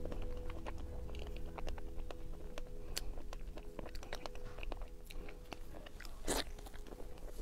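Mouth sounds of eating a soft pink peach-shaped cream-filled cake, picked up by a clip-on microphone: small wet chewing clicks and smacks throughout, with one louder bite about six seconds in.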